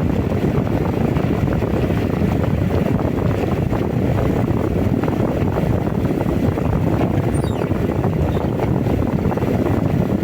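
Strong wind buffeting the microphone in a heavy rainstorm: a loud, steady, unbroken rumble.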